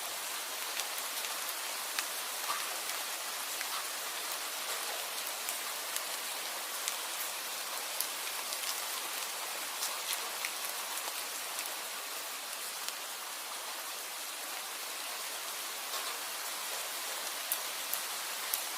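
Steady rain falling, an even hiss with scattered sharper drop ticks on a hard surface.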